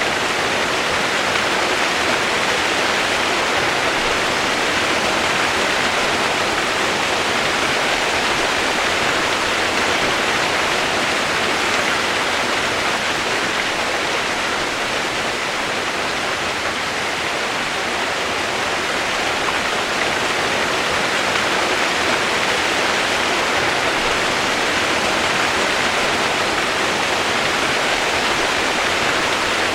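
Steady rain: an even, unbroken hiss with no separate drops, thunder or changes in level.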